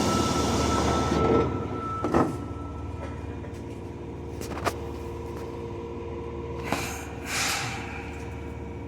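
Subway train car at a station stop: a steady tone sounds as the sliding doors close, and they shut with a thump about two seconds in. A few clicks follow, then a short hiss of air about seven seconds in, over the steady hum of the standing train.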